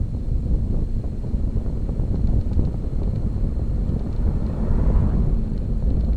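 Wind buffeting the microphone of a camera on a moving bicycle, a rough, steady low rumble. A faint swell in the middle range comes in about four to five seconds in.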